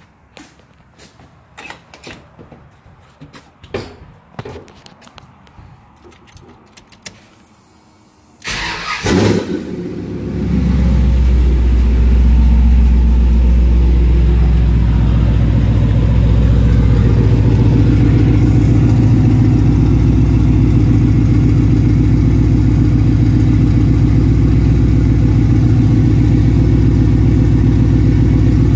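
Scattered clicks and knocks, then about eight seconds in a turbocharged engine cranks and fires on its first start with the new turbo. It settles into a steady idle.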